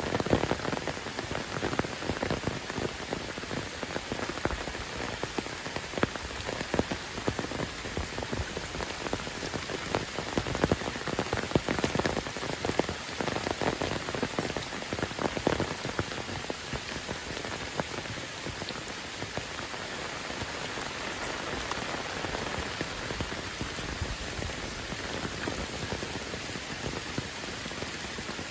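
Heavy rain falling steadily, with many sharp drops striking close by. The close drop hits are densest in the first half and thin out later.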